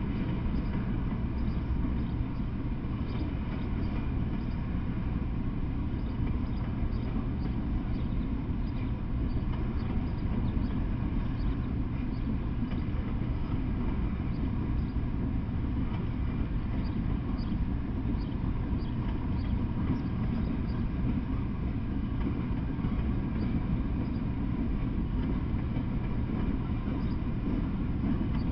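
Freight train of open-top hopper and gondola cars rolling past: a steady, even rumble of steel wheels on the rails, with faint high ticks scattered throughout.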